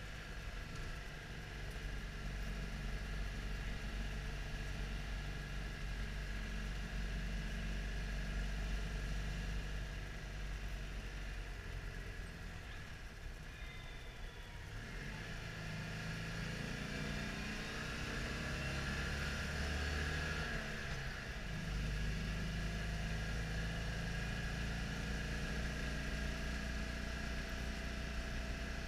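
Citroën Dyane 6's small air-cooled flat-twin engine running while driving, heard from inside the cabin. The engine note eases off for a few seconds, then climbs in pitch as the car picks up speed, drops abruptly about 21 seconds in, and runs steady after that.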